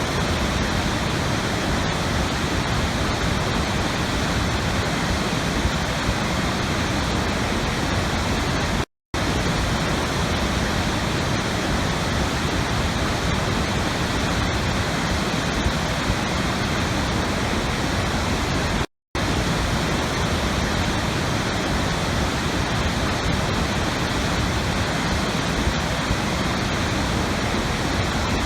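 Steady rushing water, a constant full-range roar like a waterfall. It cuts out twice to a brief silence, about ten seconds apart.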